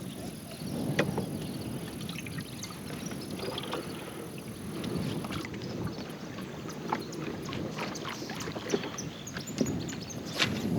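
Water lapping and slapping against a kayak hull in strong wind, with scattered small clicks and knocks.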